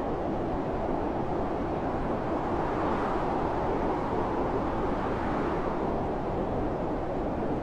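Blizzard wind blowing steadily, swelling into a stronger gust around the middle.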